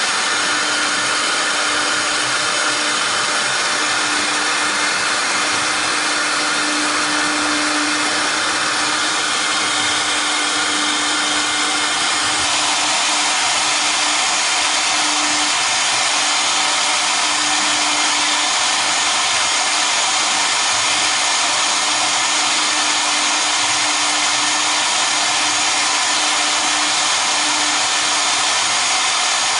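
Double-head CNC router with both spindles running a cutting job: a steady whirring hiss over a constant hum. The sound turns slightly brighter about twelve seconds in.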